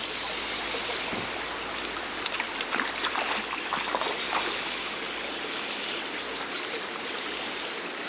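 Shallow mountain stream running over rocks, a steady rushing, with a cluster of short sharp sounds about two to four and a half seconds in.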